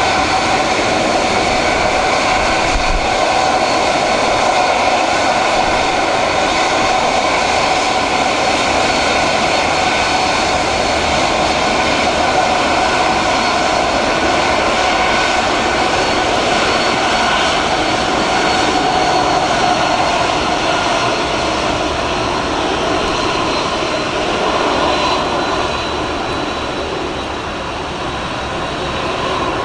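Boeing 767-300ER's twin jet engines running steadily after pushback, a rushing noise with a steady high whine on top. The sound eases a little in the last few seconds.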